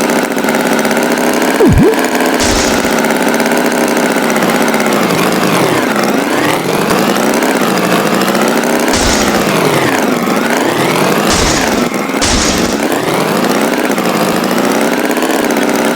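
Tractor engine running steadily, its pitch dipping and rising twice, with four short hissing bursts and low thumps along the way.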